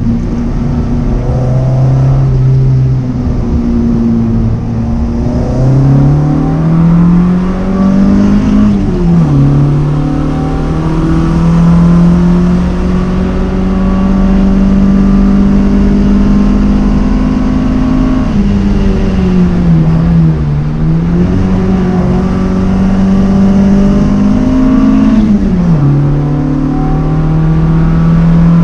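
Datsun 510's engine heard from inside the cabin, pulling hard on a race track: the engine note climbs, drops sharply at a gear change about nine seconds in, sags and climbs again around twenty seconds in, and drops again at another gear change near the end.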